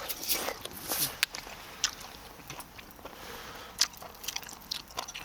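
Close-miked eating: chewing and biting charcoal-grilled duck, wet mouth sounds with scattered sharp clicks and crackles.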